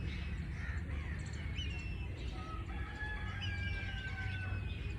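Birds chirping with many short, quick notes, and a longer drawn-out call through the middle, over a steady low rumble.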